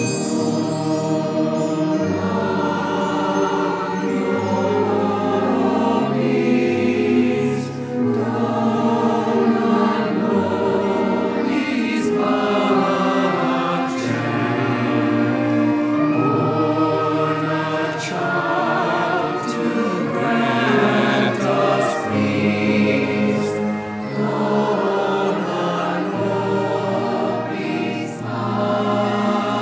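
Choir singing with orchestra accompaniment, held bass notes changing underneath every second or two.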